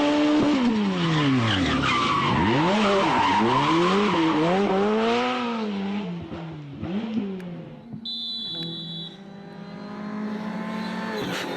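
Rally car engine revving hard, its pitch swinging rapidly up and down with throttle and gear changes, over the hiss of tyres skidding. After about six seconds the engine drops to a lower, steadier note.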